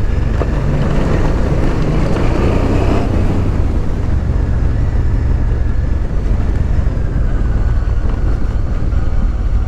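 Honda Transalp 650's V-twin engine running steadily as the motorcycle is ridden, a continuous low rumble.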